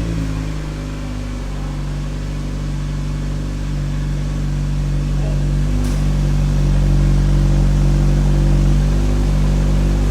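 Proton Inspira's four-cylinder engine idling steadily through a new stainless-steel rear exhaust with a 'saxophone' muffler, just after start-up; a deep, even note that grows slightly louder.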